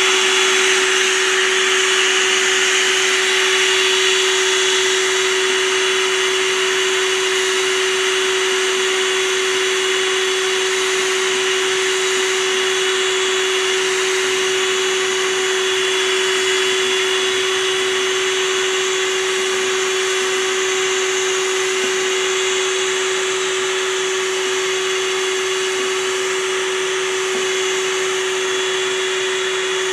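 A small motor running steadily, with a constant hum and a thin high whine over a broad hiss.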